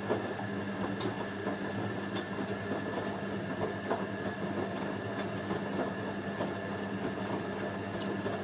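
Hoover A3060 Electronic 1100 front-loading washing machine tumbling wet bedding in its drum during the 60°C main wash, over a steady motor hum. A single click about a second in.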